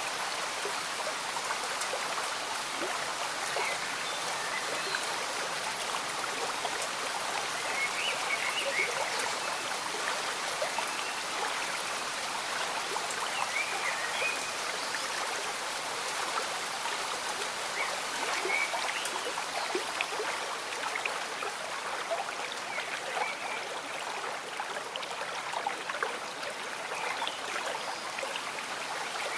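Gentle bubbling of a slow-moving stream with light rain falling: a steady wash of water with small gurgles and scattered tapping drops.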